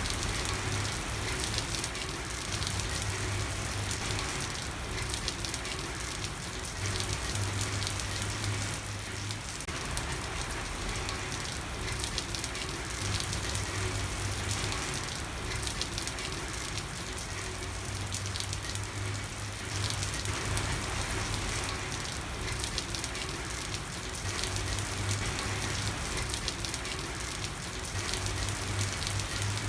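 Steady rain falling on a street, an even dense patter throughout, with a low hum that comes and goes every few seconds.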